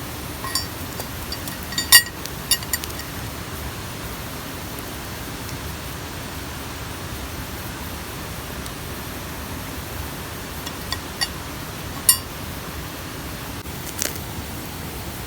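Steady rushing of a mountain stream, with a few short, sharp clicks scattered through it, the loudest about two seconds in and again about twelve seconds in.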